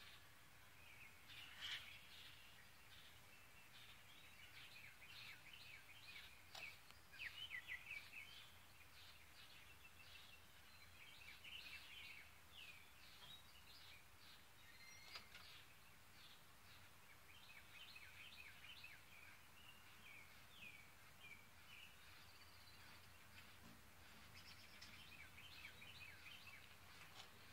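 Faint wild birdsong: many small birds chirping and calling in short, quick notes throughout, with a brief run of louder notes about seven seconds in.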